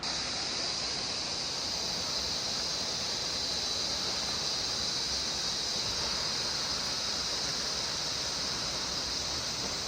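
Laxapana Falls' water rushing, a steady, even hiss strongest in its high range, which begins abruptly.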